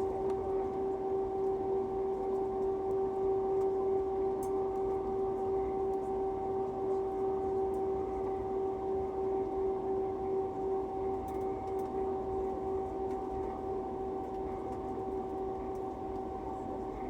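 Steady cabin noise inside an Airbus A320 before take-off: a constant hum with one unchanging tone over a low rumble, with no rise in pitch.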